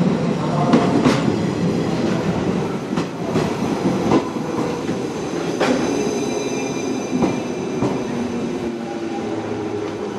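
JR Shikoku 121 series electric train pulling into the platform, its wheels knocking over rail joints and points at uneven intervals over a steady rumble. A thin high squeal joins about halfway through as the train brakes.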